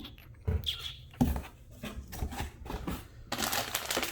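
Handling noises while unboxing: a few knocks and thumps as products are moved and set down, then about a second of crinkly rustling of packaging near the end.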